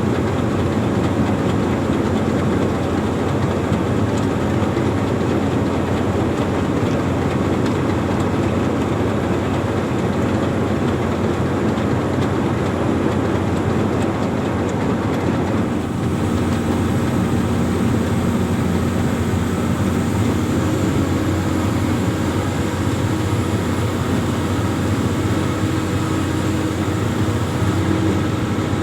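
Amphibious excavator's diesel engine running steadily under working load, with a steadier droning tone coming in just past halfway.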